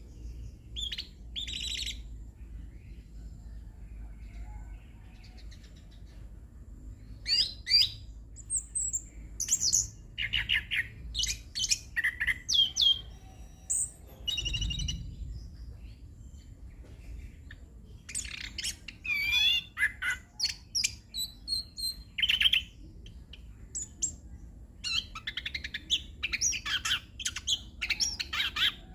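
Chestnut-capped thrush (anis kembang) singing a varied song of quick whistles, trills and chirps. The phrases come in bursts separated by short pauses, over a faint low hum.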